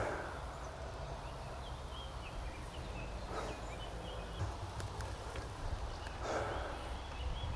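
Faint short chirps of a small bird, repeated every second or so, over a low steady rumble.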